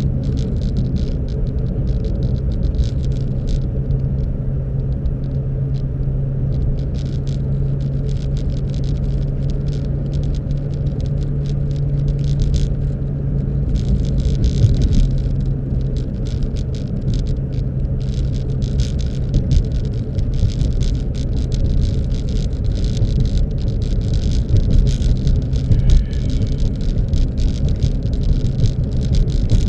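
Car on the move: a steady low engine and road rumble with a hum that fades out past the middle, and scattered crackles and rattles throughout.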